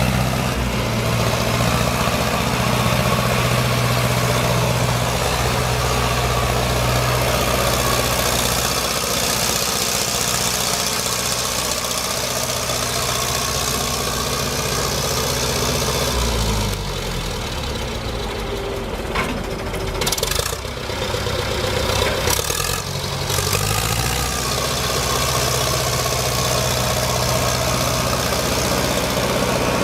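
Case 830 tractor engine running steadily. About sixteen seconds in it slows to a lower, quieter idle, with a few clicks and knocks, then picks back up to its earlier speed about eight seconds later.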